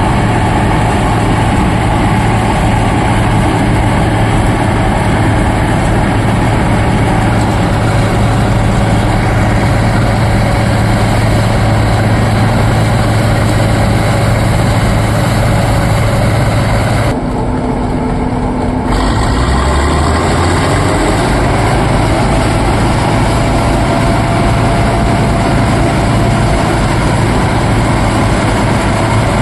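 Bizon Z056 combine harvester's SW400 diesel engine running steadily with a deep, even hum. About seventeen seconds in the sound changes abruptly: the high end drops away for a couple of seconds and the engine note shifts, then the engine runs on steadily.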